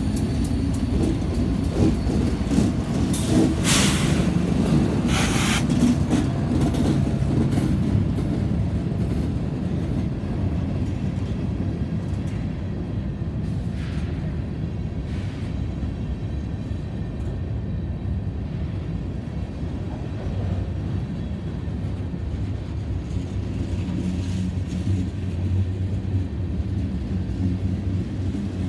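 CSX freight train passing close by. In the first seconds a diesel locomotive rumbles past, with two sharp, loud noises about four and five and a half seconds in. After that, covered hopper and tank cars roll by with a steady rumble of wheels on rails.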